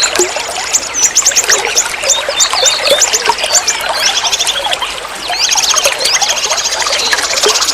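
River water flowing and trickling, with birds singing over it in quick repeated high notes that turn into a fast, dense trill about five seconds in.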